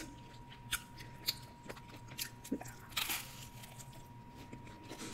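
A person eating close to the microphone: chewing, with scattered crisp crunches and wet mouth clicks, and one longer crunch about three seconds in.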